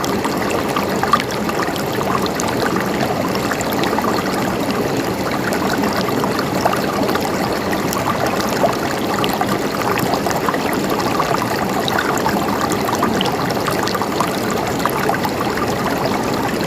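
River water flowing steadily, with a continuous rush and many small splashes and trickles over rocks.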